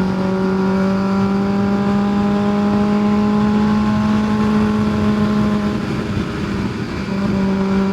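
Kawasaki ZX-6R 636 inline-four engine running at a steady, even note while riding, with wind and road noise. The note eases off and drops away about six seconds in, then picks back up near the end.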